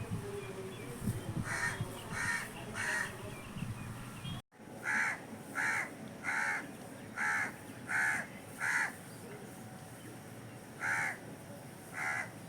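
Crow cawing: a string of short caws about two every three seconds apart, three in a row, then a run of six, then two more near the end.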